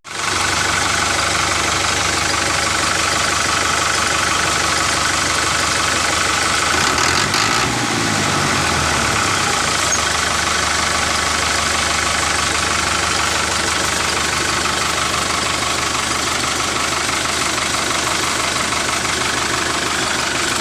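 Small motor and gears of a DIY mini tractor running steadily. Its hum sags in pitch and recovers once, about a third of the way in, as if briefly loaded.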